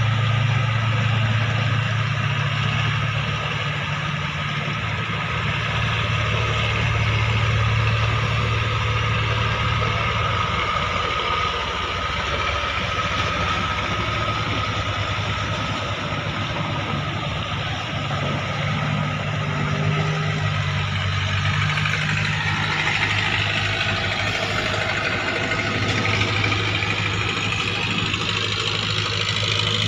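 Klotok river boat's diesel engine running steadily with a constant drone. From about two-thirds of the way in, a second, higher engine note rises in pitch.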